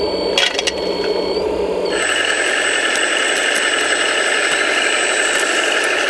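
Radio-controlled hydraulic construction models running: a steady mechanical whine with a few sharp clicks just under a second in, changing abruptly about two seconds in to a louder, higher-pitched whine that holds steady.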